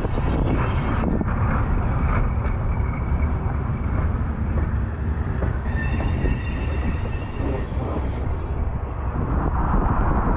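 A Baldwin-Westinghouse electric steeplecab locomotive and train rolling by with a steady low rumble. A high squeal of several tones rises over it about six seconds in and lasts about two seconds.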